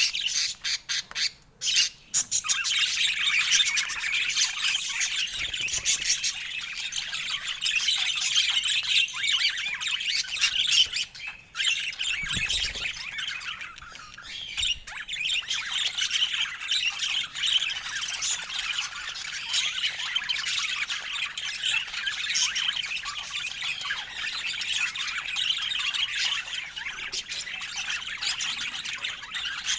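Budgerigars chattering and squawking: a dense, unbroken stream of many short, overlapping high calls, with brief pauses about a second and a half in and again about eleven seconds in.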